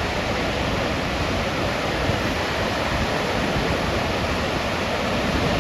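Steady rushing noise of breaking surf and wind, with no distinct single waves standing out.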